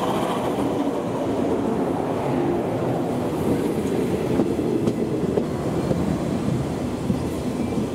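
JR West 117 series electric multiple unit running alongside the platform, a steady rumble of wheels on rail with a few sharp clacks over the rail joints in the middle.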